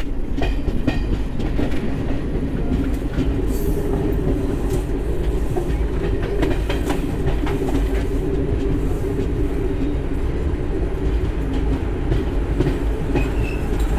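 Passenger train running on the rails, heard from aboard as it comes into a station: a steady rumble with irregular clicks of the wheels passing over rail joints.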